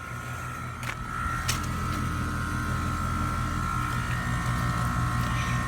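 Outdoor central air conditioner condenser unit running: a steady low hum with a thin high whine above it, growing louder about a second in.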